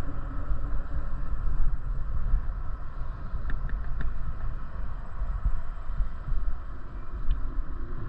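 Uneven low rumble of wind buffeting the microphone while cycling, with a few faint clicks between about three and a half and four seconds in and again near the end.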